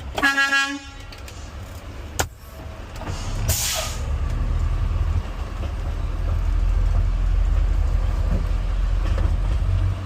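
A short horn-like tone, then a sharp hiss of air from the garbage truck's air brakes being released, and the truck's diesel engine rumbling louder as it pulls away.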